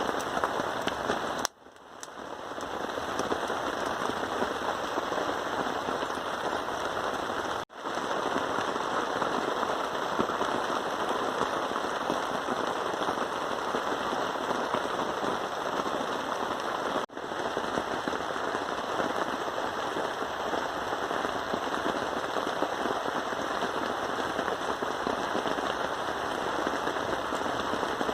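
Heavy rain pattering steadily and densely, briefly cutting out three times.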